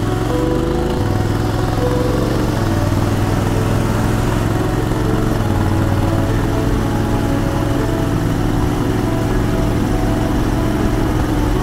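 Honda X-ADV's 745 cc parallel-twin engine running at a steady note while riding.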